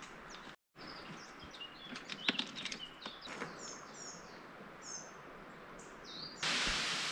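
Small birds chirping and calling in short, high, repeated notes, with a few sharp clicks around the middle. Near the end a loud, steady rushing hiss cuts in suddenly and covers them.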